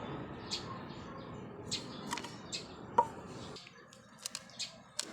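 A bird chirps over and over in short, high notes, about two a second, with one sharp click about three seconds in. A steady background noise cuts off about three and a half seconds in.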